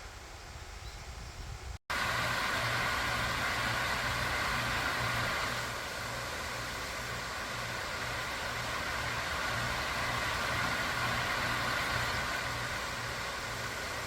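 Steady mechanical drone with a pulsing low hum and a held higher tone, starting abruptly about two seconds in after a short quieter stretch.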